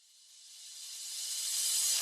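A white-noise riser: a hiss that swells steadily louder from silence as a build-up into the song's beat.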